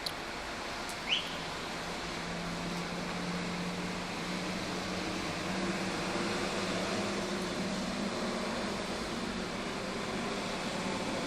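Steady rain hiss, with a low engine-like hum coming in from about two seconds in and a single short high chirp about a second in.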